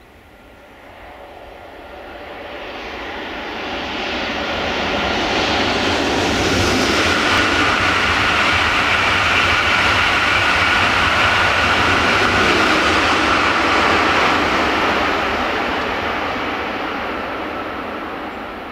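A train passing by: a rushing noise that builds over about five seconds, holds steady for several seconds, then slowly fades away.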